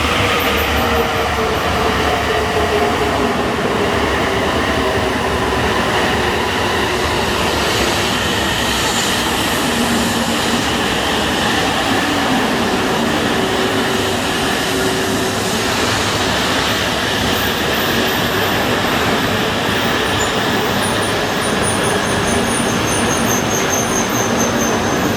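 Tohoku Shinkansen train running through the station: a loud, steady rush of train noise, with a whine that falls in pitch over the first few seconds as the train slows.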